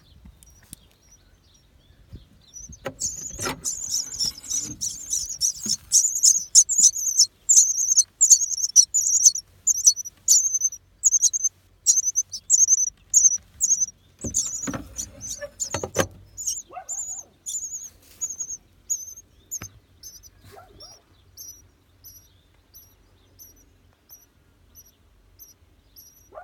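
A brood of nestlings chirping in a rapid, high-pitched chorus. It starts a few seconds in and is loudest through the middle, then thins to scattered single chirps. Low rustling knocks come twice, as the chirping starts and again about halfway.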